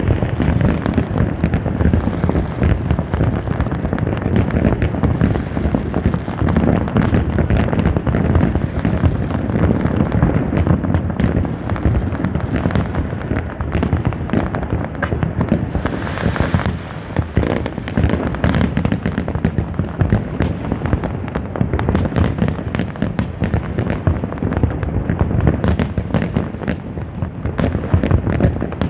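Fireworks display: a dense, continuous barrage of shell bursts and crackling, with many sharp bangs overlapping.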